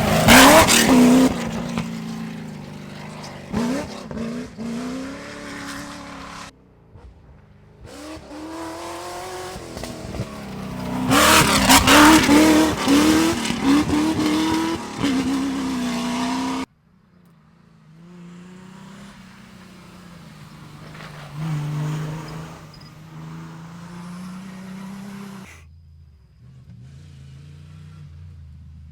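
Cross-country rally cars racing past on a dirt special stage, their engines revving hard and changing pitch as they pass and shift, in several separate passes that cut abruptly from one to the next. The loudest passes come right at the start and again about halfway through.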